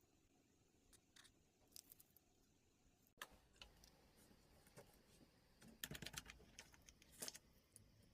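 Faint handling noise: scattered small clicks and taps, with a brief cluster of clicks and a soft thump about six seconds in.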